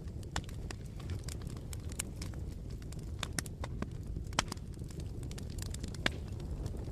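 Campfire burning: a steady low rumble with frequent sharp pops and snaps from the burning wood. Two louder pops come about four and a half and six seconds in.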